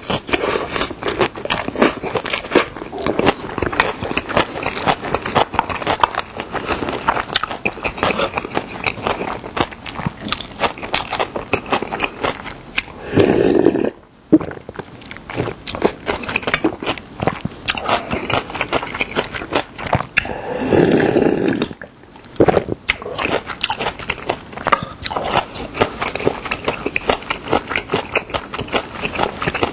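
Close-miked chewing of a mouthful of spicy young-radish (yeolmu) bibimbap: a rapid, wet run of mouth clicks and smacks. It is broken twice midway by a longer slurp of seafood doenjang soup drunk from an earthenware pot.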